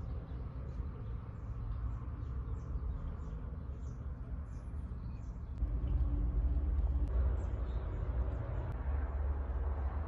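Outdoor ambience: faint, quick chirps of small birds over a steady low rumble, which gets louder about six seconds in.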